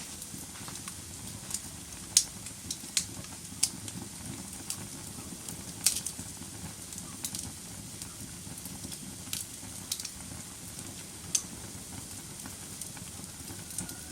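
Wood fire burning in a fireplace: a steady low rumble with irregular sharp crackles and pops, the loudest about two and six seconds in.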